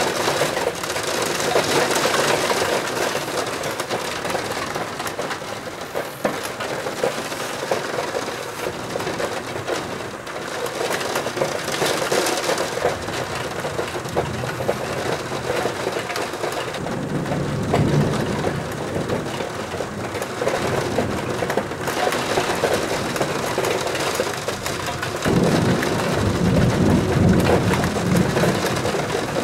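Heavy rain falling hard, a dense crackling patter with many small clicks. Low rumbles of thunder come in twice, about two-thirds of the way through and again near the end.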